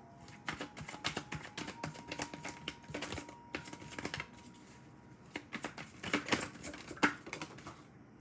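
Tarot cards being handled and shuffled: an irregular run of quick snapping clicks, loudest about six to seven seconds in.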